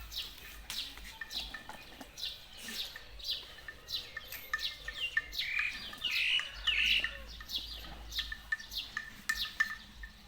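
Small birds chirping rapidly: many short, high chirps that sweep downward in pitch, several a second, with a few louder, fuller calls in the middle.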